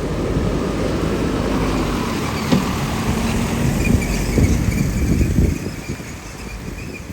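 A motor vehicle running close by with a low rumble and a steady hum, with a few knocks, then fading away about five and a half seconds in.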